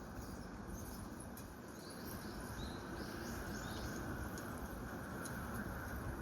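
A small bird giving a quick run of short, high chirps about two seconds in, over a steady background rush.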